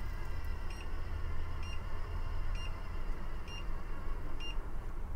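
A short, high electronic beep repeating about once a second over a steady low rumble.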